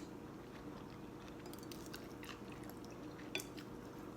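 Soft chewing while eating boat noodles, with scattered small clicks and one louder click a little over three seconds in.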